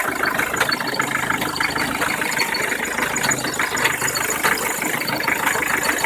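Mitsubishi 4D56 four-cylinder diesel engine idling with a fast, even ticking clatter. This is the extraneous noise whose cause the owner is trying to find.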